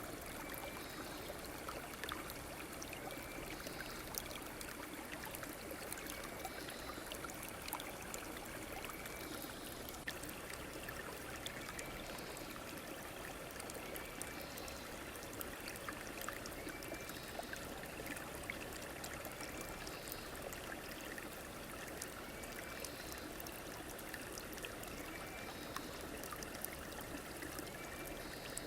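Stream water running and trickling steadily, with many small splashes. A faint short call repeats every couple of seconds above it.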